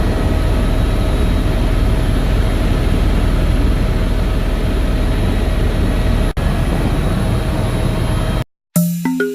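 Helicopter running: steady loud engine and rotor noise with a thin high whine over it. It breaks off for an instant a little over six seconds in, then stops abruptly near the end.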